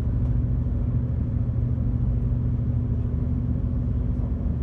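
Passenger ferry's engines running steadily, heard on board as a constant low hum at an even pitch.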